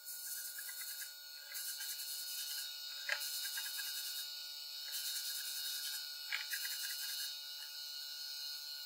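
Rhythmic rubbing strokes of an abrasive on a workpiece, about one every one and a half seconds, with two light knocks along the way.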